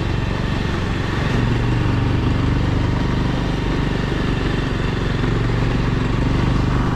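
Bajaj Pulsar motorcycle's single-cylinder engine running steadily while riding, the engine speed rising and easing slightly a few times, over a steady rush of wind and road noise.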